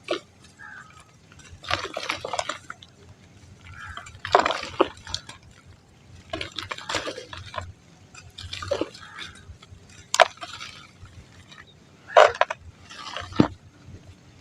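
Chunks of soft dry mud being crumbled, in short gritty bursts about every two seconds, some starting with a sharp snap.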